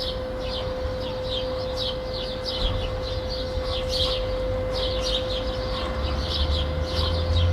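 Residential city ambience: small birds chirping in quick repeated calls over a steady hum, with a low distant traffic rumble swelling near the end.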